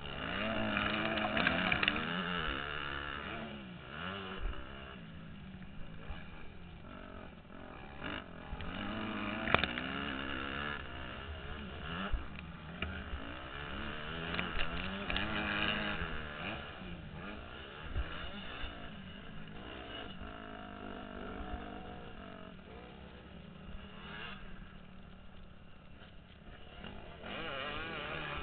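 Motocross bike engine heard from the rider's helmet, revving up and dropping back again and again as it is ridden through the gears, with a rumbling underneath and a few sharp knocks.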